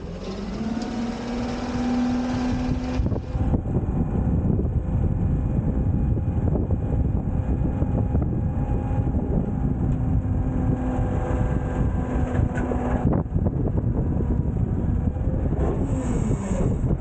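Autocar garbage truck with a Heil Freedom half-pack body running with the engine raised, its hydraulics working to dump a bin, giving a steady rumble and whine that shifts in pitch about three seconds in and again near the end.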